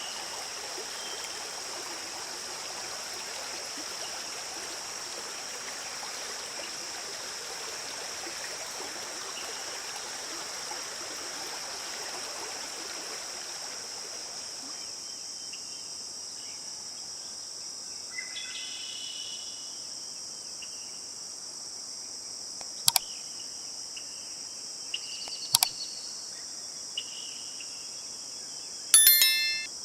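Forest stream running under a steady, high-pitched drone of crickets and other insects. About halfway the water sound drops away, leaving the insects with a few short calls and several sharp clicks, the loudest a quick rattle near the end.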